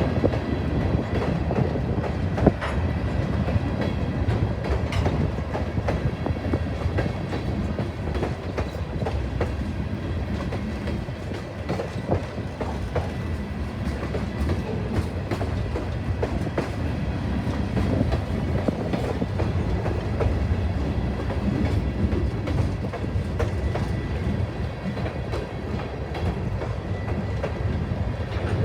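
Train cars rolling steadily past, wheels clicking over rail joints.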